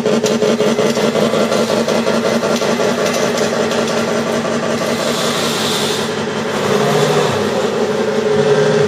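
Electronic engine sound generator in a 1/6-scale Tiger tank model, playing a simulated tank engine through its speaker: a steady pulsing idle whose note shifts about two-thirds of the way through.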